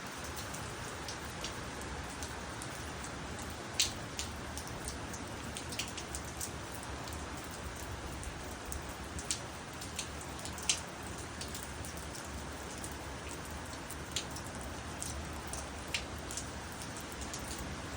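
Steady rain falling, with single drops striking sharply now and then, the loudest about four and eleven seconds in.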